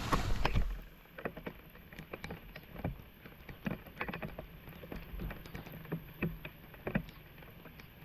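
Floodwater splashing and sloshing: a louder surge at the start, then irregular small splashes and knocks.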